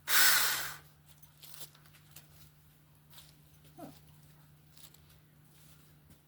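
A short, loud rush of noise lasting under a second at the start, fading out, then quiet with a brief faint pitched sound, like an animal's call, about four seconds in.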